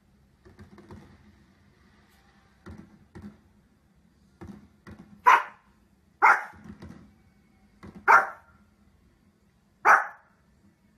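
Small fluffy dog barking: four sharp, loud barks one to two seconds apart in the second half, after a few faint short sounds.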